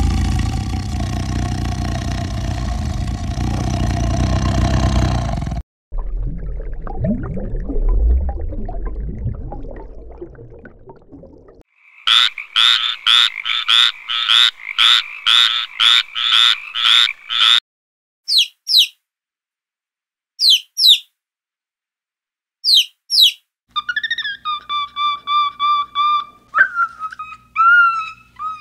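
A run of animal calls. A tiger roars for about the first six seconds, then a low rumble fades away. Next a frog gives a fast pulsed croaking call for about six seconds, followed by a few short high chirps. Near the end comes a string of short pitched calls from a monkey.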